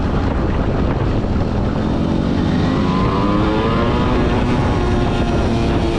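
Small 125 cc motorcycle engine running under way, with wind rush over the microphone. From about two and a half seconds in, its pitch climbs as the bike accelerates, then holds steady.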